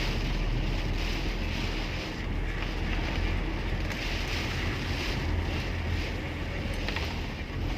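Steady driving noise inside a taxi: a low engine and road rumble, with a hiss that rises and falls.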